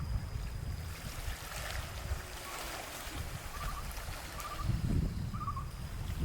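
Wind buffeting the microphone as an uneven low rumble, growing stronger near the end, with three short bursts of quick high chirps in the second half.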